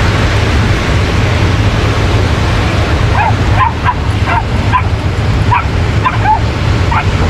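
A dog yipping in a quick run of short, high-pitched yelps, starting about three seconds in, over a steady wash of beach surf and wind noise.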